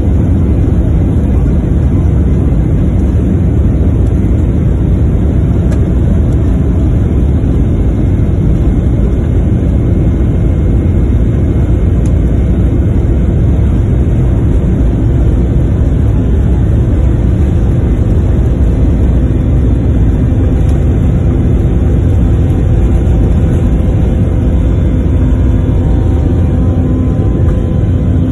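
Airplane engines at takeoff power during the takeoff roll: a loud, steady rumble. Faint steady tones join in about two-thirds of the way through.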